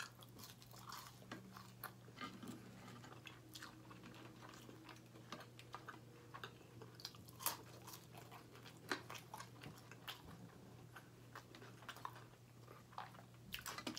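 Faint chewing with scattered short crisp crackles as breaded fried chicken tenders are chewed and torn apart by hand, over a low steady hum.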